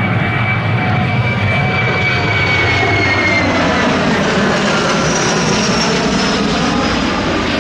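Military transport aircraft flying past, its engines running loud and steady, with a few high engine tones that slowly fall in pitch as it goes by.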